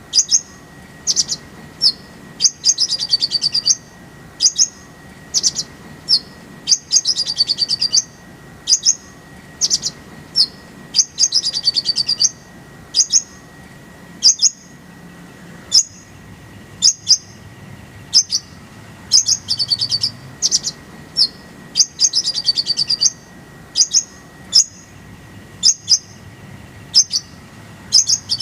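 Kolibri ninja (konin) sunbird singing: high, thin chirps and short quick twittering phrases, repeated every second or so.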